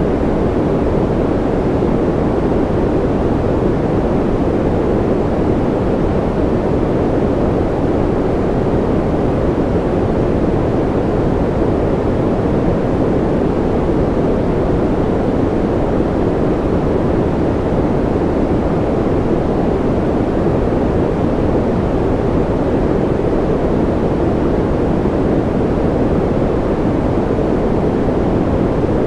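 Continuous noise for soothing a baby to sleep: a steady, unchanging hush weighted toward low tones, deep and muffled rather than hissy, with no breaks or changes.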